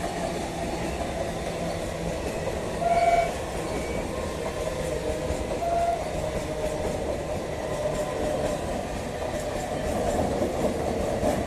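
Electric multiple-unit (EMU) suburban local train running in toward the station platform: a steady rumble of wheels on rails. A short high tone sounds briefly about three seconds in and again, fainter, near six seconds.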